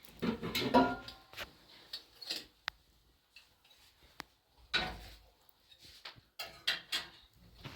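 Irregular knocks and clatter of household objects being handled, with a louder jumble about half a second in and two sharp strikes at the end.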